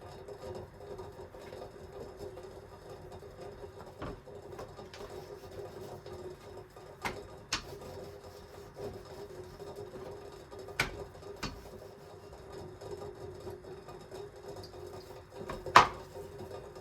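Kitchen sounds over a steady motor hum: a handful of sharp clinks and knocks of utensils or dishes, a pair about halfway through and the loudest near the end.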